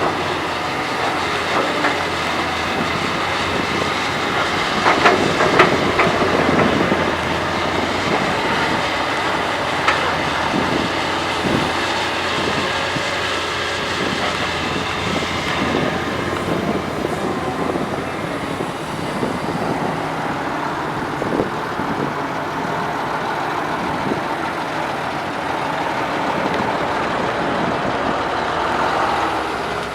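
Doosan DX225LCA hydraulic excavator at work: steady engine and hydraulic noise with a few sharp clanks and knocks along the way.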